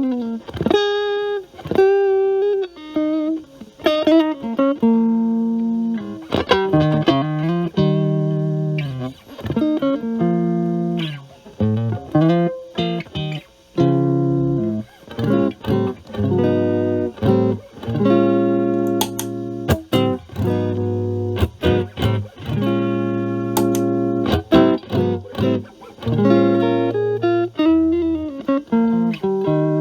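Electric guitar (a Stratocaster with single-coil pickups) played through a Metal Pedals Rawhide overdrive pedal at moderate gain into a Marshall Valvestate amp on its clean channel, giving a lightly driven tone. Single-note lines give way to strummed, sustained chords in the middle.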